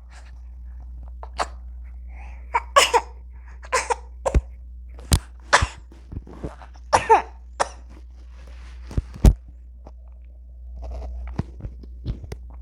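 A baby's short coughs and small vocal sounds, a few seconds apart, mixed with sharp clicks, over a steady low hum.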